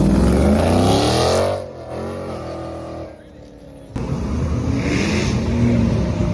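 A car engine revving hard as it accelerates away: its pitch climbs for about a second and a half, drops at a gear change, then fades. About four seconds in the sound cuts to a steadier engine rumble.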